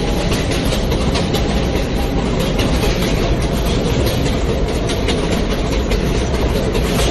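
New York City Subway J train running between stations: a steady loud rumble of the moving train, with wheels clicking over the rail joints.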